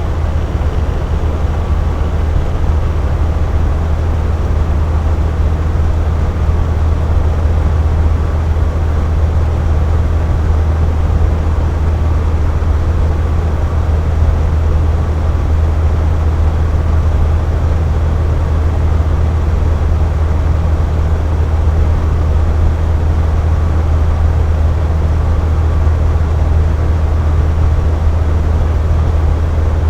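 Box fan running steadily: a constant rush of moving air with a low hum underneath.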